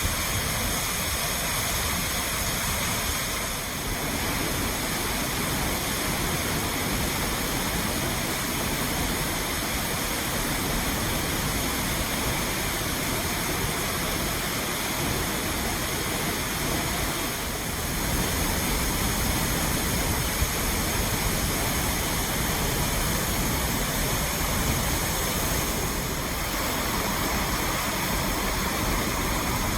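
Thornton Force waterfall pouring over a limestone ledge into its plunge pool: a steady, loud rush of falling water.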